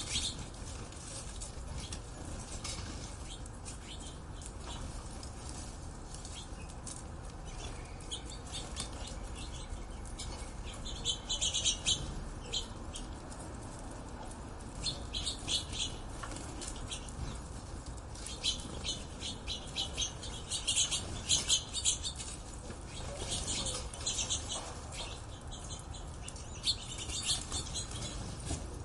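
Birds chirping in clusters of quick, high calls, over a steady low rumble.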